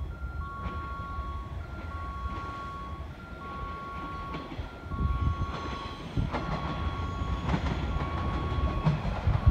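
413 series electric multiple unit approaching, its rumble and wheel clicks growing louder from about five seconds in. A repeating two-tone electronic warning signal sounds about once a second throughout.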